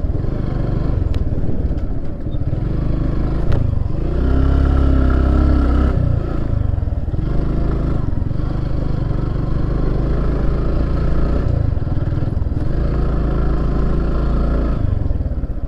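Motorcycle engine running steadily while the bike is ridden, its pitch shifting a little with the throttle.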